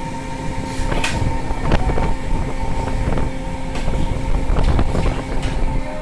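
Fishing boat's machinery running with a steady hum and a low rumble of wind on the microphone, with several scattered knocks.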